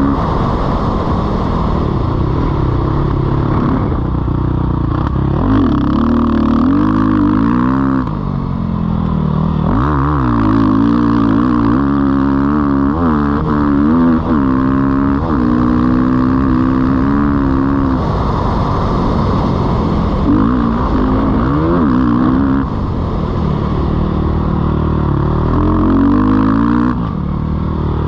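Sherco 450 SEF single-cylinder four-stroke dirt bike engine being ridden hard, its pitch rising and falling over and over as the throttle opens and closes and the gears change.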